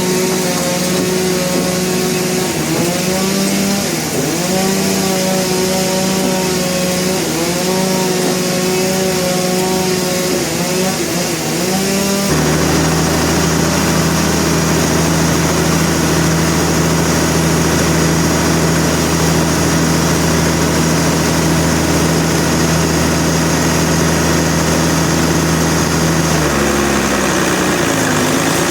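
Engine-driven saw running, its pitch dipping and recovering again and again for about twelve seconds; then the sound changes abruptly to a steady, deeper engine drone, which dips briefly once near the end.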